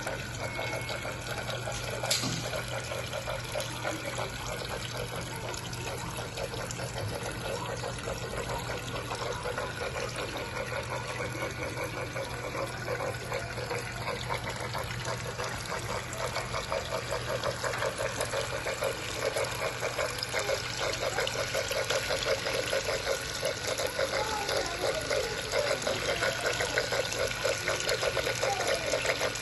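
Water steadily trickling and splashing in a small homemade tabletop water fountain, with a faint steady hum under it.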